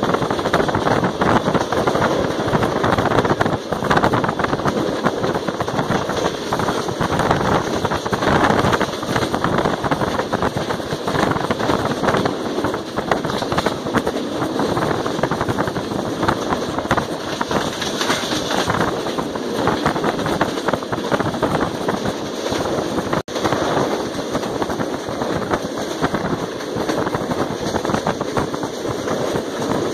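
Wind rushing and buffeting the microphone at an open coach window of a fast-moving passenger train, over the steady rumble and rapid clatter of the wheels on the rails. The sound cuts out for a split second about two-thirds of the way through.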